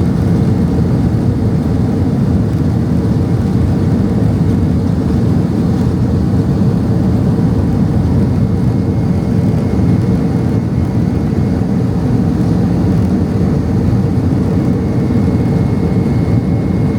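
Steady cabin noise of a Boeing 767-300ER in its initial climb after takeoff: the jet engines at climb thrust and rushing airflow form an even, deep roar with a faint steady hum.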